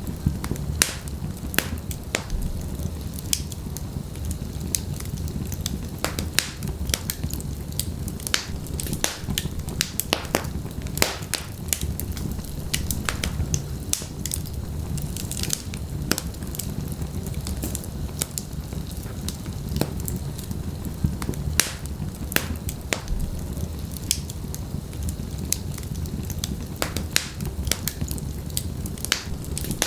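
Wood fire of burning logs crackling: frequent irregular sharp pops and snaps over a steady low rumble of flames.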